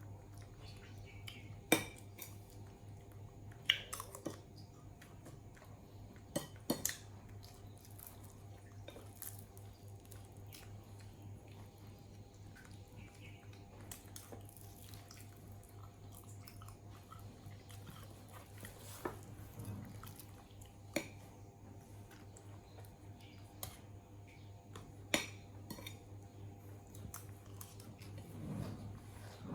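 A handful of sharp, isolated clicks and taps, about eight spread over half a minute, over a steady low hum.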